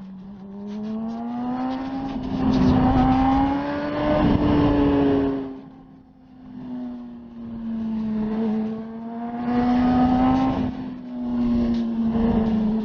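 Motorcycle engine revving and accelerating in repeated rising runs. It eases off briefly about halfway through, then pulls again.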